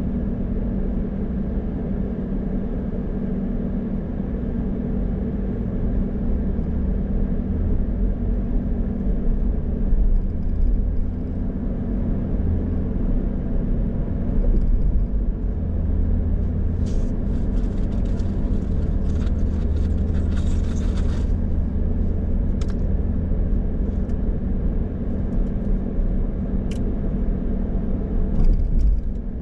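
Car driving on the road: a steady low rumble of engine and tyre noise, with a short cluster of faint high clicks a little past the middle.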